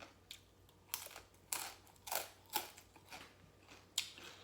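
A person chewing crunchy papaya salad and raw vegetables close to the microphone: a series of sharp crunches, about one every half second.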